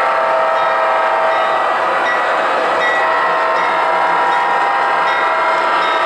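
O scale model trains running on the layout: a steady, even running sound with no pauses or sudden knocks.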